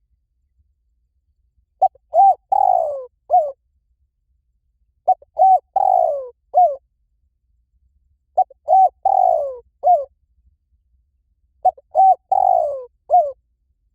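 Spotted dove cooing: four identical phrases about three seconds apart. Each phrase is two or three short coos, a longer falling coo and a final short coo.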